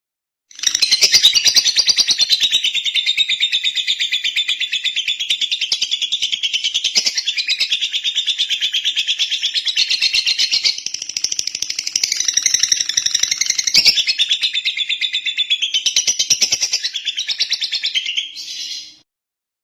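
Lovebird singing one long, unbroken run of rapid high chattering notes, starting about half a second in and cutting off suddenly near the end.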